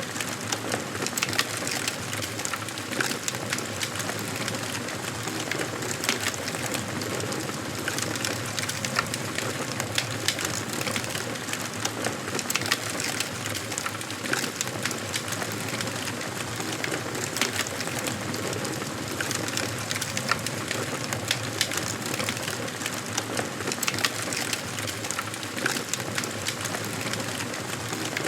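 Wood fire crackling in a fireplace: a steady hiss of burning logs with frequent sharp pops and snaps.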